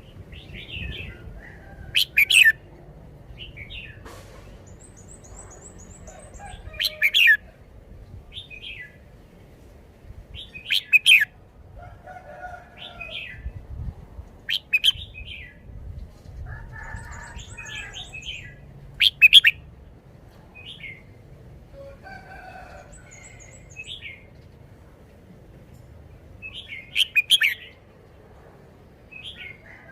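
Red-whiskered bulbul singing: loud short whistled phrases about every four seconds, with softer notes between them and a few brief, very high trills.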